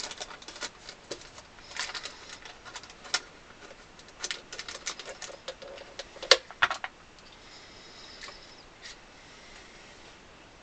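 Clamps being put on and tightened by hand: scattered clicks and knocks, the sharpest about six seconds in, thinning out after about seven seconds.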